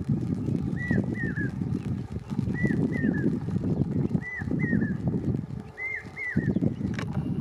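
Low, uneven rumble of an approaching passenger train hauled by a WAG 7 electric locomotive. Over it a bird calls four times, each call a pair of short falling chirps, one pair roughly every two seconds. One sharp click near the end.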